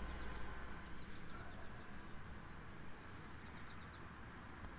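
Quiet outdoor background with faint bird chirps, two short runs of them.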